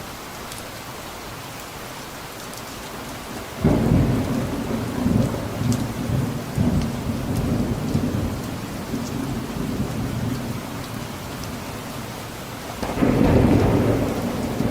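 Steady rain with thunder. About four seconds in, a loud thunderclap breaks and rolls on for several seconds, fading slowly, then the thunder swells again near the end.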